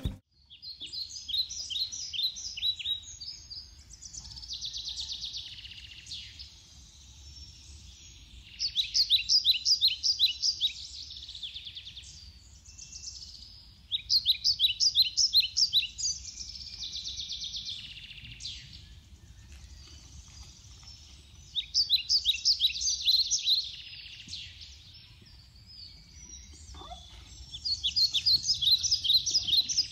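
A songbird singing phrases of quick, high, rapidly repeated notes, one phrase every five to seven seconds, over faint low outdoor background noise.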